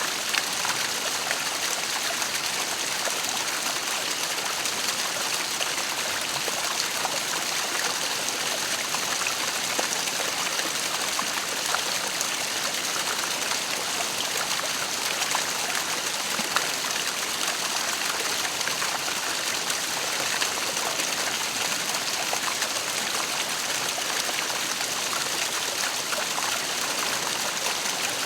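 Waterfall: water falling and splashing steadily, with small splashes and drips ticking through it.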